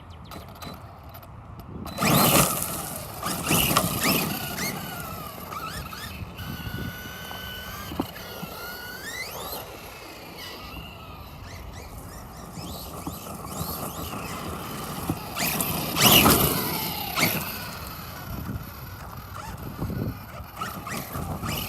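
Electric drive motor of a 1/8-scale Force RC Epidemic 4x4 RC monster truck on 4S LiPo power, whining up and down in pitch as it speeds up and slows. Loud bursts of tyre and gravel noise come about two seconds in and again around sixteen seconds.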